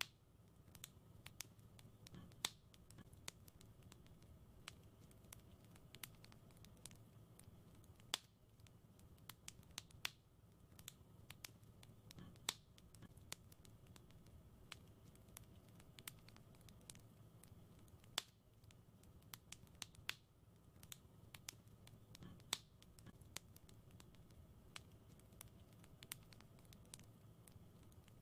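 Quiet wood fire crackling: irregular sharp pops and ticks, a few louder snaps every few seconds, over a low, soft rumble of the burning fire.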